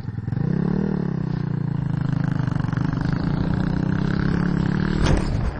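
Small motorbike engine revving up about half a second in, then running at a steady speed under load. A sharp knock comes near the end, after which the engine sound drops away.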